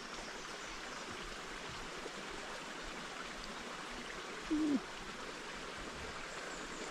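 A stream running with a steady rushing flow of water, and one short low tone about four and a half seconds in.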